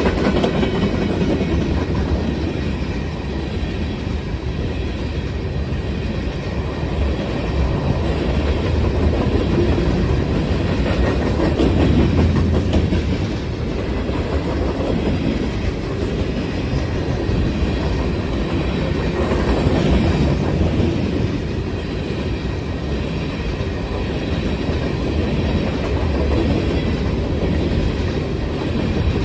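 Freight cars of a long manifest train rolling past with a steady rumble, their steel wheels clicking over the rail joints.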